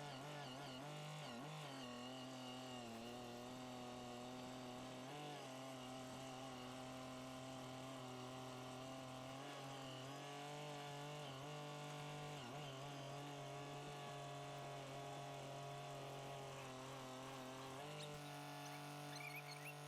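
Faint engine of heavy equipment running steadily, its pitch holding nearly constant with small dips now and then.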